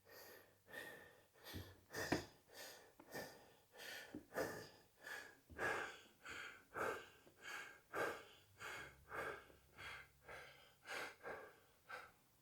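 Heavy, rapid panting from an exhausted athlete catching his breath, with about one and a half sharp breaths a second.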